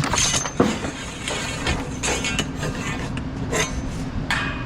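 Steel tie-down chain clinking and rattling as it is fed through the hole of a cable reel: a series of sharp metallic clanks with a light ring, over a steady low rumble.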